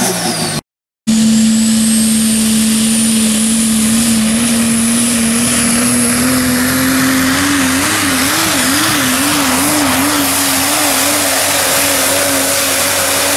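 Super stock diesel pulling truck running hard at high rpm under load. Its engine note climbs slowly and wavers for a few seconds past the middle, with a thin, high turbocharger whistle rising above it. The sound cuts out completely for about half a second near the start.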